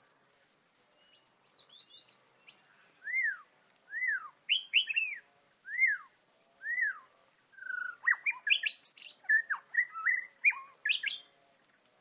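White-rumped shama singing: clear whistled notes that rise and fall, about one a second, then a quicker run of varied notes and clicks from about eight seconds in.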